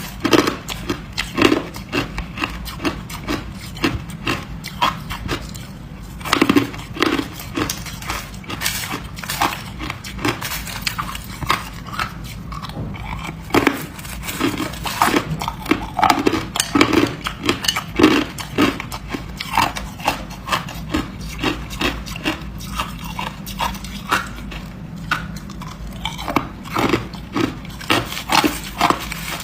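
Ice being bitten and chewed: an irregular run of crisp crunches, a few per second, with louder bites now and then.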